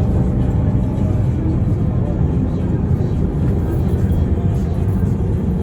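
Mercedes-Benz O405N2 city bus running under way, heard from inside the cabin: a steady, loud engine and road rumble.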